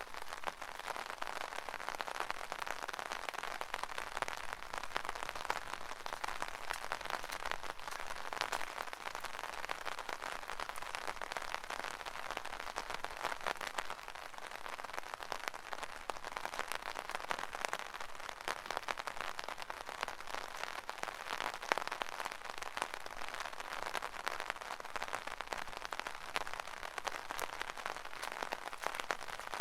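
Rain pattering steadily on an umbrella canopy: a dense, even patter of drops.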